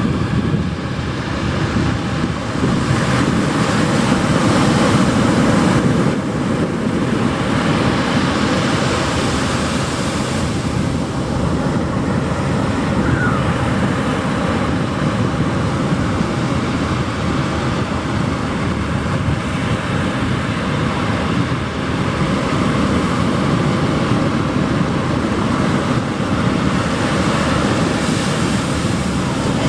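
Pacific surf breaking on a beach: a continuous wash of waves that swells a few seconds in and again near the end, with sea wind on the microphone.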